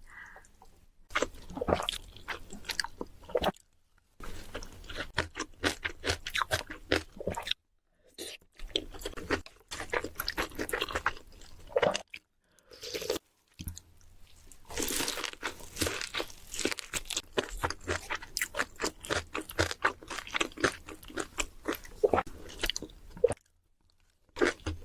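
Close-miked crunchy chewing and biting of food, a dense run of crackly crunches in several stretches broken by brief silent gaps.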